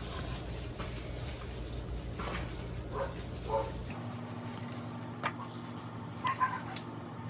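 A dog giving a few short, high whimpers over a steady low hum.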